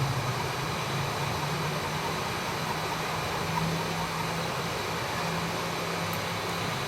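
Hot air rework station blowing steadily: an even airflow hiss with a faint low hum from its blower, heating an iPhone logic board to soften underfill glue under a chip.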